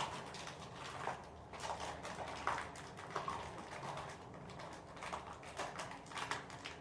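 Snack packaging being handled: faint, scattered rustles and light taps at irregular moments.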